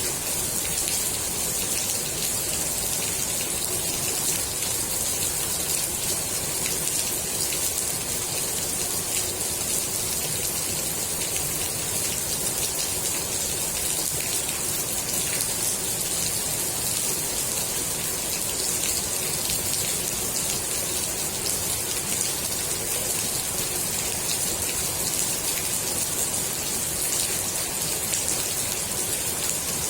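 Steady rain falling onto the water of a swimming pool: a dense, even hiss of countless small drop patters on the surface.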